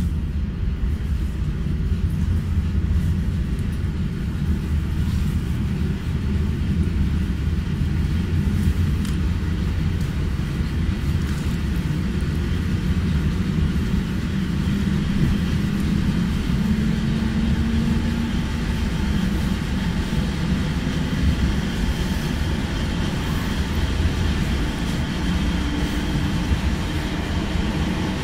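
Inside a regional electric passenger train pulling away and gathering speed: a steady low rumble of wheels and running gear, with a faint motor whine rising in pitch about halfway through.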